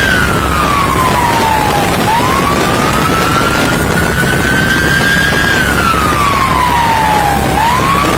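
Police siren in wail mode: a single tone that falls, rises slowly and falls again about five and a half seconds later. Underneath runs a loud, steady noise.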